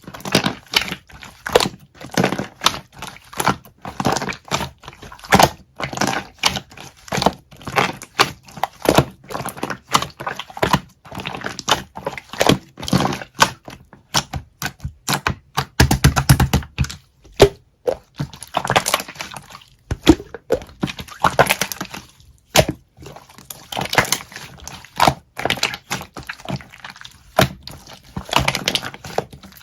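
Slime being squeezed and pressed by hand, giving a continuous run of sharp clicks, pops and crackles with no pauses longer than a second.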